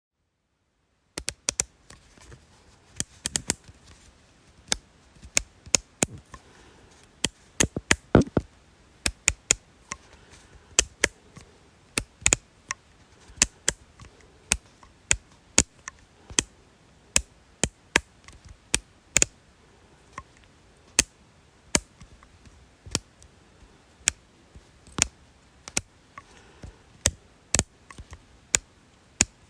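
A long run of sharp, separate clicks, often in quick pairs, coming irregularly about one or two a second, starting about a second in after a brief dead silence.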